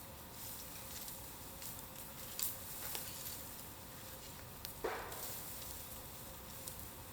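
Bamboo bonfire crackling, with scattered sharp pops and a short, louder hiss about five seconds in.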